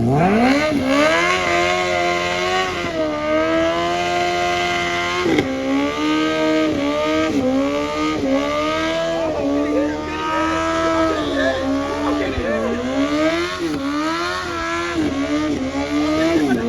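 Car engine revved hard: it climbs sharply at the start, is held at high revs for several seconds, then drops and is blipped up and down again and again.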